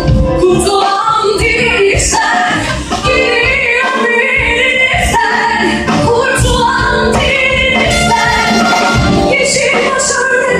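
Live orchestra playing a song with a singer's voice over the band.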